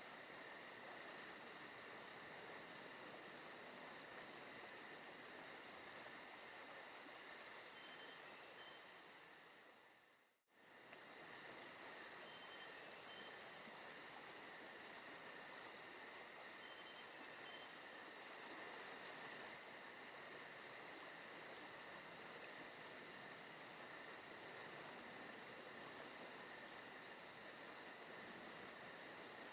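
Faint forest-ambience insect chorus: crickets and other insects trilling steadily, with a fast high pulsing chirr. The whole bed fades out and back in about ten seconds in.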